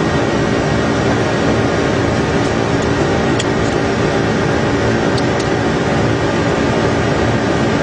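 Steady rushing cabin noise on a Boeing 747 flight deck during the climb, from airflow and the air-conditioning, with a faint steady hum and a few faint clicks.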